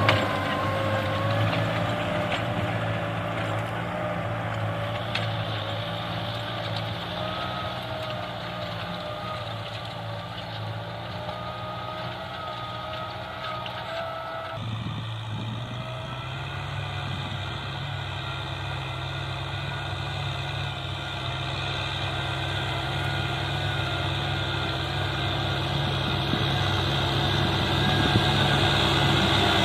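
Tractor engine running steadily with a thin whine over it that slowly climbs in pitch. The sound shifts abruptly about halfway through and grows louder toward the end.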